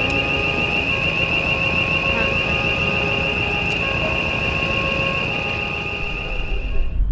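A steady, high-pitched warbling tone, like an alarm or buzzer, over wind rumble on the microphone; fainter tones switch between a few pitches underneath, and the high tone cuts off suddenly near the end.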